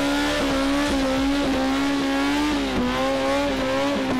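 Worked Toyota 3S-GE four-cylinder engine of a Datsun GX drag car held at high, steady revs during a burnout, its pitch sagging briefly a few times, with tyre noise from the spinning rear wheels underneath.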